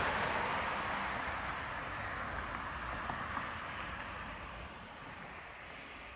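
A car driving past on the street, its tyre noise fading steadily as it moves away.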